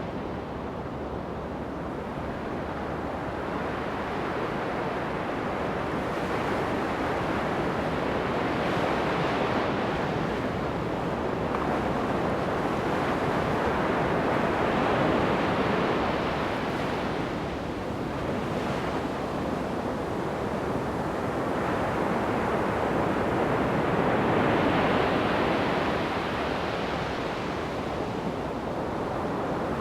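Ocean surf breaking on a sandy beach, a steady wash that swells and ebbs with each wave, peaking every few seconds, with some wind on the microphone.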